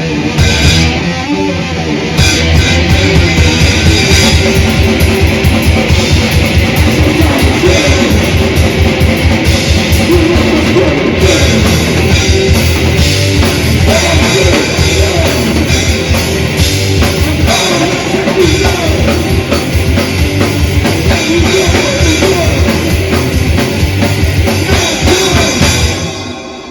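Death/thrash metal band playing live without vocals: distorted electric guitars over fast, relentless double-kick drumming. The band stops about a second before the end, leaving a fading ring.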